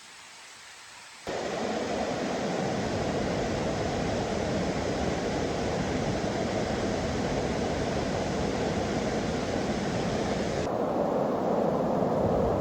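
Steady rushing water, like a waterfall or fast mountain stream. It is a continuous even hiss that jumps sharply louder about a second in and turns duller near the end.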